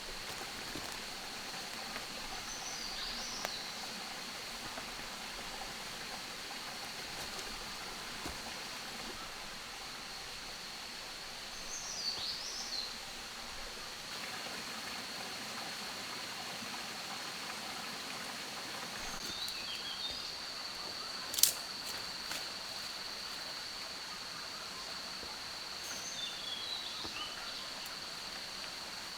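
Rainforest ambience: a steady high-pitched insect drone over a soft hiss, with four brief bursts of bird chirps spread through. About two-thirds through comes a single sharp click, the loudest sound.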